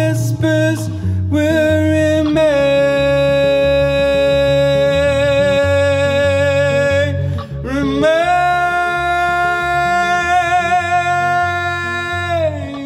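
Live acoustic song: a singer holding long sustained notes over acoustic guitar. One note is held from about two seconds in to about seven, and a second slides up into place about eight seconds in and is held until it falls away near the end.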